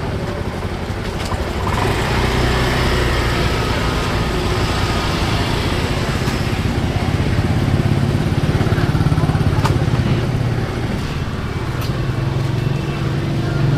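Motorbike engine running steadily, growing louder about two seconds in.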